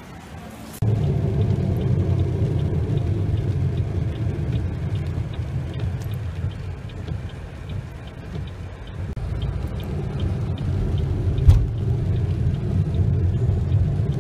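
Car driving, heard from inside the cabin as a steady low rumble of engine and road noise that starts abruptly about a second in. Faint regular ticking runs through the middle, and there is a single sharp knock near the end.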